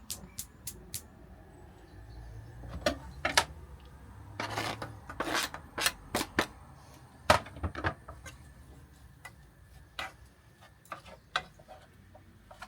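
Knife chopping food on a cutting board: a quick run of even taps, about five a second, that stops about a second in. Then come scattered single knocks, the loudest a little past halfway, and a few short scraping sounds.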